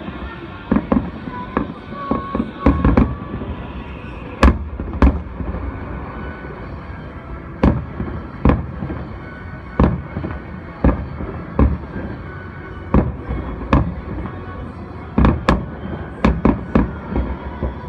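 Aerial firework shells bursting, heard from a distance: about twenty sharp bangs at irregular intervals, with a quick cluster near the end.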